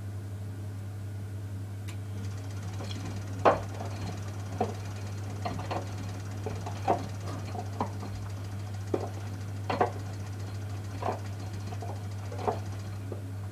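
Miele Softtronic W 435 front-loader washing a pillow: the drum turns over a steady low hum, and the wet pillow and water slap and thump irregularly, about once a second. The loudest thump comes about three and a half seconds in.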